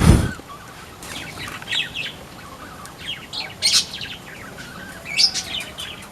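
A sudden low thump right at the start, then small aviary birds chirping in short bursts, several quick high chirps at a time, with pauses between.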